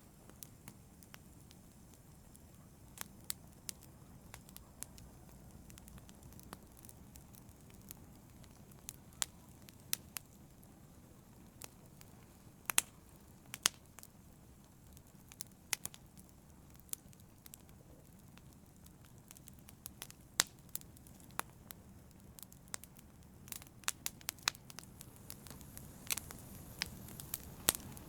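Wood fire in a fireplace crackling: irregular sharp pops and snaps over a low, steady hiss of the burning fire, the pops coming more often near the end.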